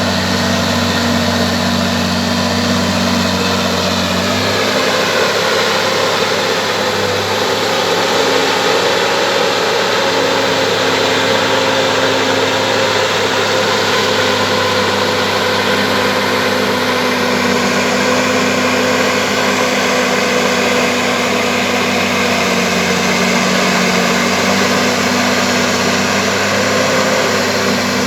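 Bulldozer's diesel engine running loudly and steadily, its pitch shifting a few times as the engine speed changes.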